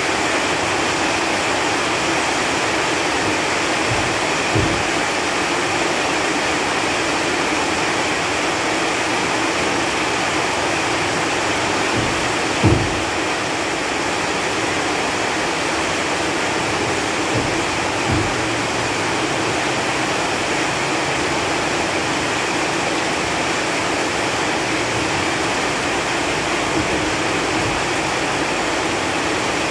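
Steady rain falling on leaves, with a few louder drops landing now and then, the loudest about a third of the way in.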